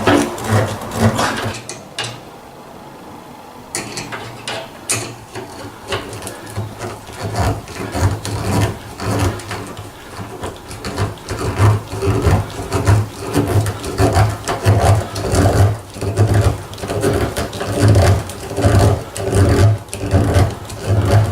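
A wood screw being driven into wood by hand with a screwdriver: repeated turning strokes with a rubbing creak, after a short quieter pause about two seconds in.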